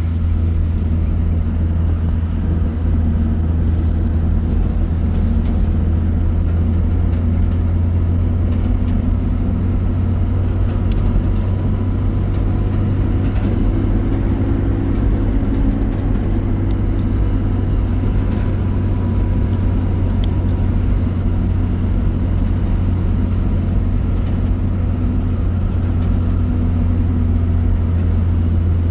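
Motor vehicle running steadily, a continuous low engine and road rumble with no change in pace.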